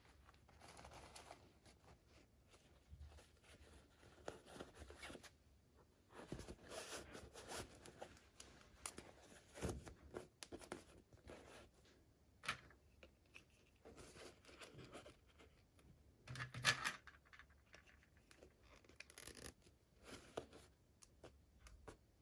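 Toy packaging being handled and opened by hand: quiet, irregular tearing and scratchy rustling, with a sharper click about twelve seconds in and the loudest crackle around seventeen seconds.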